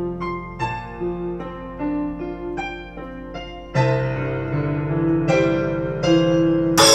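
Music: an electric piano plays a melody of single notes over a held bass note. Partway through the texture grows louder and fuller, and a cymbal crash comes in right at the end.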